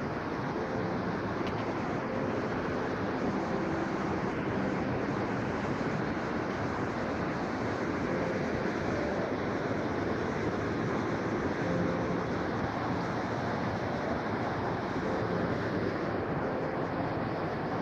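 Steady rushing noise of a fast-flowing, flood-swollen river.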